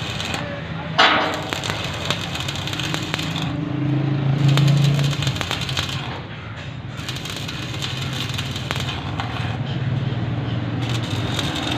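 Arc welding: the arc crackles and hisses steadily over a low hum, with a sharp louder crack about a second in.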